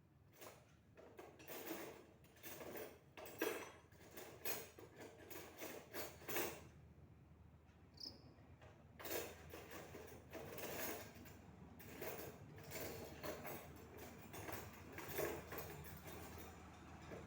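Irregular knocking, scraping and rattling of hard objects being handled, with a lull about seven seconds in before it picks up again.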